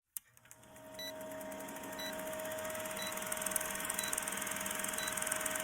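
Steady rain hiss that fades in over the first second and then holds, thick with fine rapid drop ticks. Under it runs a faint steady hum, and a short high beep sounds about once a second.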